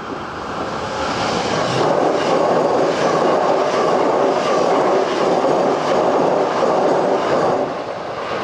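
Hankyu 8000 series electric train passing close by at high speed, a loud rumble of wheels on rail with repeated clacks as the wheels cross rail joints. The noise builds quickly and drops away after about seven and a half seconds as the train recedes.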